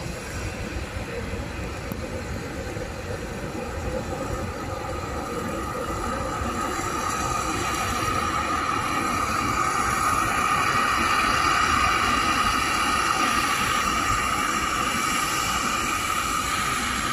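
Jet airliner's engines running with a steady high whine over a low rumble, growing louder toward the middle and easing slightly near the end.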